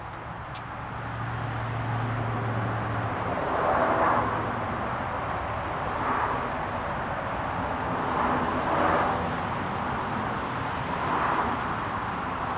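Rhythmic swishing of waterproofing spray being applied to boat canvas and rubbed in with rags, a soft swell about every two seconds over steady outdoor background noise. A low hum fades out about three seconds in.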